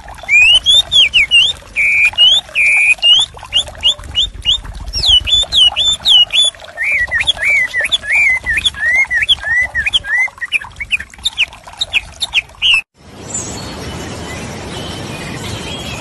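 Small birds chirping and calling in quick succession, many short sweeping notes one after another. Near the end the calls cut off suddenly and give way to a steady hiss.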